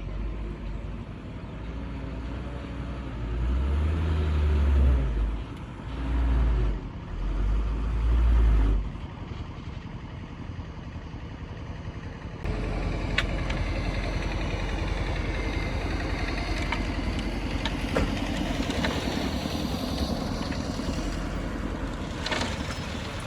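Heavy diesel machinery running, its engine surging loudly three times in the first half. Partway through it changes abruptly to a steady working noise with a few sharp knocks.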